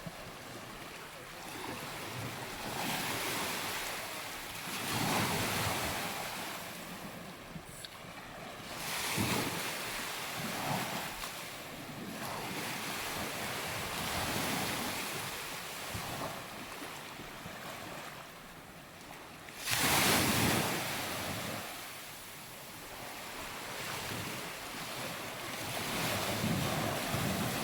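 Surf washing onto a sandy beach in surges every few seconds, the loudest breaking suddenly about twenty seconds in, with wind on the microphone.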